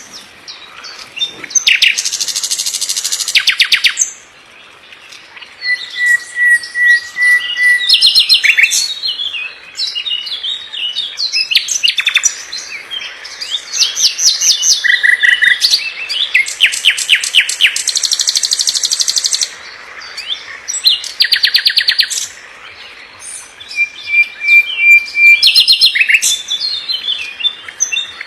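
A songbird singing a varied song: phrases of very fast trills of repeated notes, a few long level whistles, and chirps, with short pauses between phrases.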